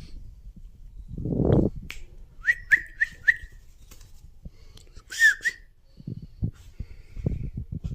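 Short high whistled chirps, four in quick succession and then two more a couple of seconds later, each rising and then holding its pitch. A brief rustling whoosh comes before them, and soft low knocks follow near the end.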